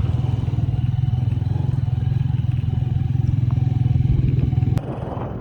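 Motorcycle engine running steadily with a low, even pulse. Near the end the sound drops abruptly to something quieter.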